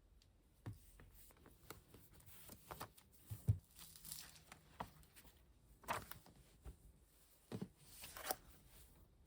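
Light taps, clicks and rustling of small objects being handled, coming at irregular intervals, with a few firmer knocks.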